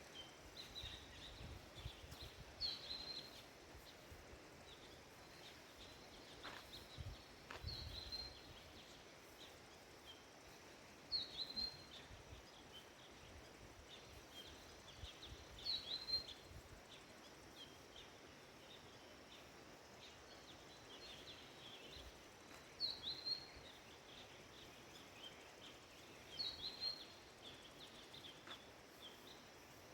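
A bird repeating a short, high call about every four seconds, six or seven times, over faint outdoor background noise.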